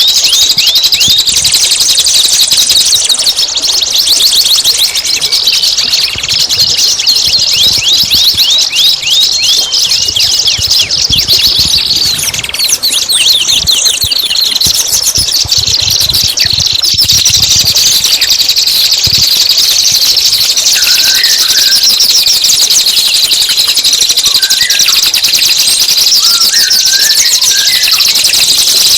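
Recorded songbird song: a loud, continuous, rapid chatter of high notes repeated many times a second, each sweeping downward, with a few separate lower chirps in the second half.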